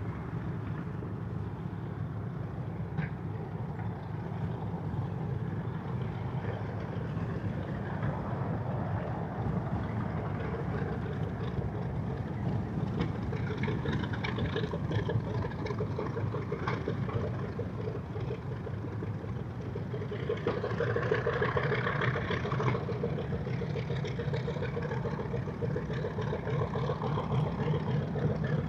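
The twin Wright R-2600 radial engines of a B-25 Mitchell bomber running at a distance, a steady low drone that grows louder about twenty seconds in as the plane readies for takeoff.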